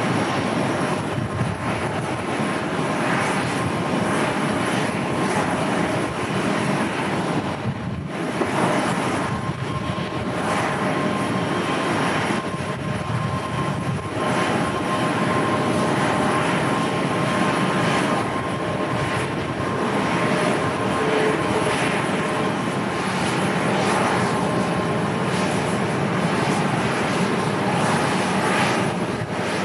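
Jet airliner's engines running: a steady rush with a faint whine, broken by gusting wind.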